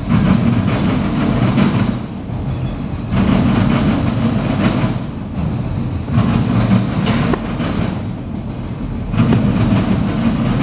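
A freight train's autorack cars rolling past: steel wheels on rail with a clickety-clack rumble that swells roughly every three seconds as each car's wheel sets go by.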